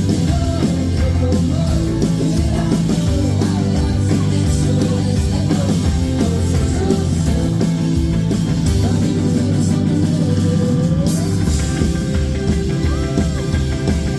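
Live indie rock band playing on stage: electric guitars over a steady bass line.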